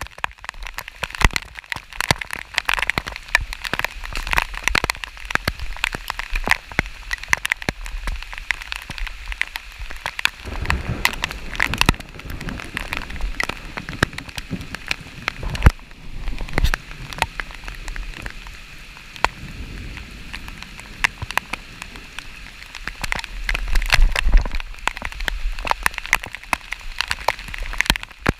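Steady rain falling, with many drops ticking sharply close to the microphone. Low rumbles of wind on the microphone come and go.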